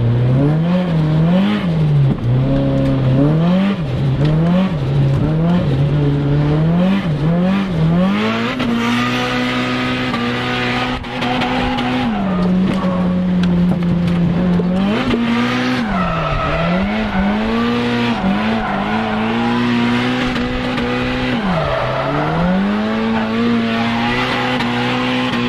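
Nissan Silvia S15 drift car's engine revving hard, with the revs bouncing up and down about once a second. After about eight seconds the revs are held high for long stretches, with a few sharp drops, while the tyres squeal in a drift.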